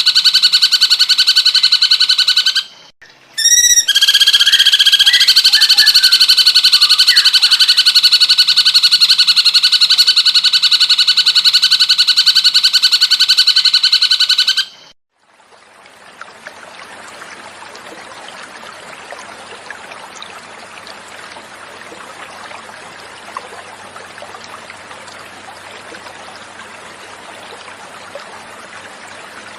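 Recorded cucak cungkok bird song: a loud, rapid trill held at a steady pitch, broken by a short pause about three seconds in and cutting off about fifteen seconds in. After it, quieter flowing water runs on, the water interlude of a masteran training track.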